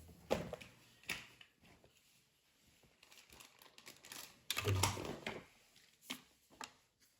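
Objects being handled: a run of irregular clicks, knocks and rustles, with a heavier thump about four and a half seconds in.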